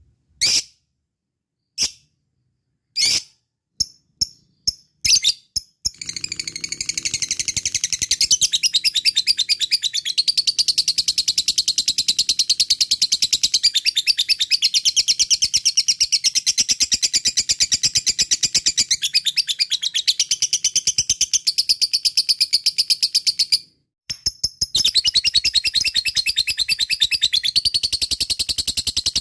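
Lovebird giving its ngekek, the long chattering song: a few separate sharp chirps that come quicker and quicker, then a long, very fast, unbroken high-pitched chatter that breaks off briefly near the end and starts again.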